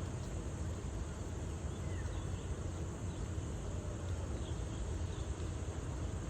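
Outdoor ambience: a steady low rumble with a few faint, short chirps scattered through it.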